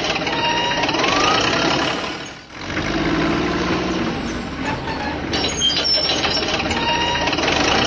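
Heavy truck or construction-machine engine running, with short high beeps over it. The sound drops away briefly about two and a half seconds in, then carries on.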